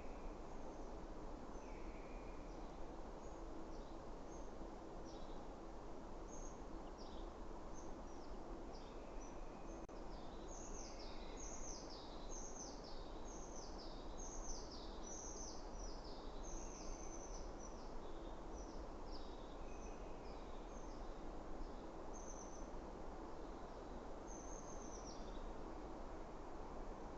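Small songbirds singing in a forest over a steady background hiss: many short, high, falling notes that come thickest for several seconds in the middle, with softer, lower calls every couple of seconds.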